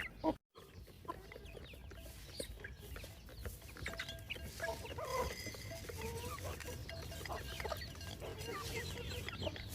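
A flock of chickens calling on and off: hens clucking and chicks giving high, short peeps. The sound cuts out completely for a moment about half a second in.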